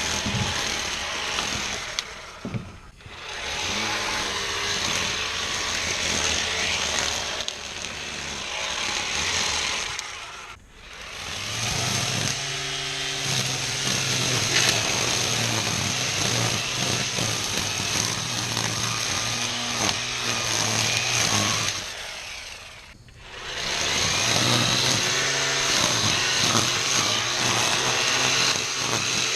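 ECHO 58V battery string trimmer (Pro-Torque trimmer attachment on the PAS2620 power head) running flat out through tall weeds and grass, a steady high whine with cutting noise. The motor winds down briefly three times, about 3, 10 and 23 seconds in, and spins back up each time.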